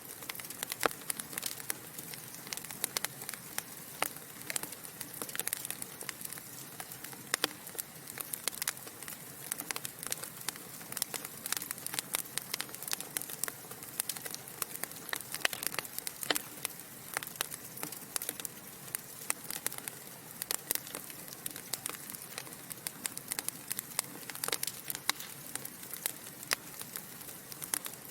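Burning logs crackling in a fireplace: irregular sharp pops and snaps, several a second, over a steady soft hiss.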